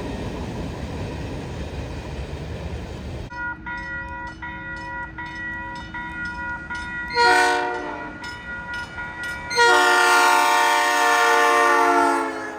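A passing freight train rumbles for about three seconds. Then a diesel locomotive's multi-chime air horn sounds: held at first, a short loud blast about seven seconds in, then a long loud blast near the end whose pitch drops slightly as the locomotive passes.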